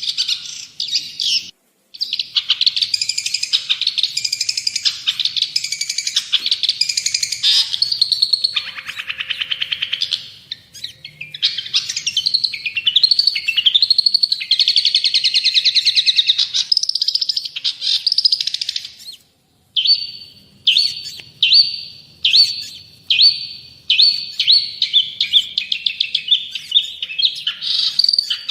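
Long-tailed shrike (cendet) singing in full voice: a fast, varied chattering song. From about twenty seconds in it changes to a run of short, evenly repeated notes.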